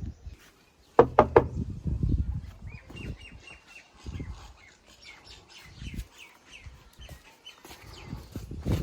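Small birds chirping in quick series of short high notes, with three sharp knocks about a second in and scattered dull thumps.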